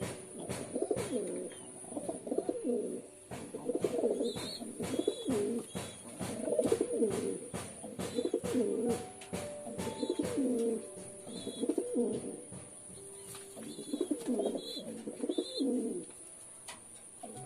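Domestic pigeons cooing over and over, a low warbling coo phrase about every second with short pauses, along with sharp clicks and a few faint high chirps.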